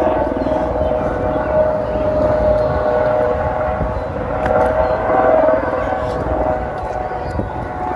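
A steady pitched tone made of several held notes that waver slightly and swell about halfway through, over a low background rumble.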